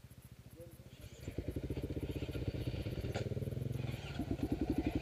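Off-road dirt bike engine idling, then opened up about a second in as the bike rides off, with even firing pulses; the throttle opens further near the end.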